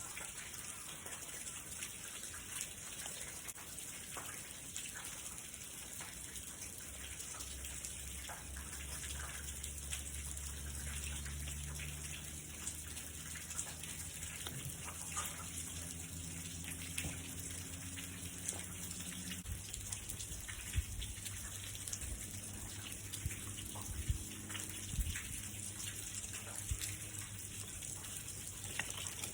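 Steady rain falling, an even hiss. A low hum joins in for a stretch partway through, and a few soft knocks come later.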